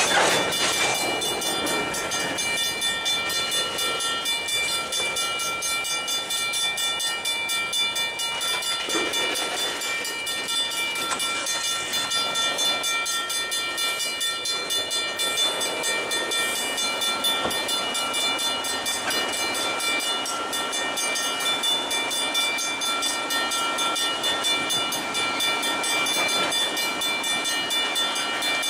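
Freight train of boxcars and tank cars rolling past close by: a continuous rumble and rattle of steel wheels on the rails, with a steady high-pitched whine held throughout.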